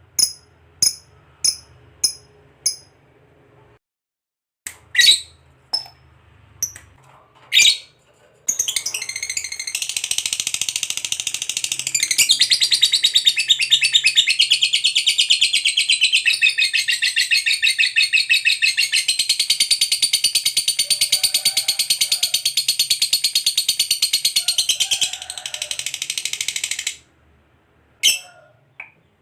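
Lovebird giving its long 'ngekek' trill: a few short, sharp chirps, then about 8 seconds in an unbroken, rapid, rattling high trill that runs for some 18 seconds before breaking back into single chirps near the end.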